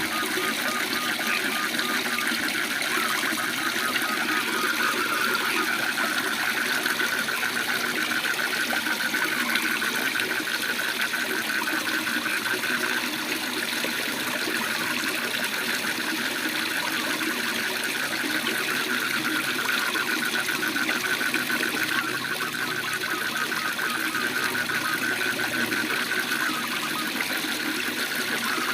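Steady rush of a waterfall with a continuous chorus of frogs trilling, a fast run of pulses held at one pitch.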